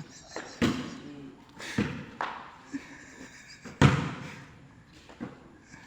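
Five or so dull thumps at uneven intervals, the loudest about four seconds in.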